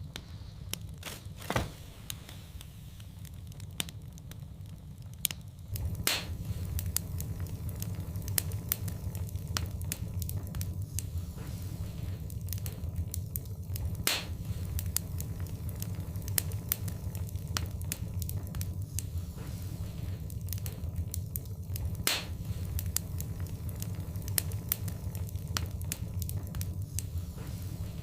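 Wood fire burning in a fireplace: a steady low rumble from the flames, with scattered crackles and a few sharper pops. The rumble grows louder about six seconds in.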